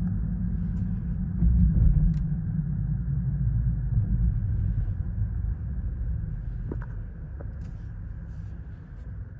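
Heavy machinery engine running as a tree truck and digger load a tree, a steady low rumble that grows fainter over the second half, with a couple of brief faint squeaks near the end.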